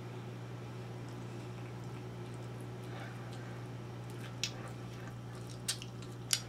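A person chewing food with the mouth open, with soft wet mouth sounds and three sharp lip-smacking clicks in the second half, over a steady low electrical hum.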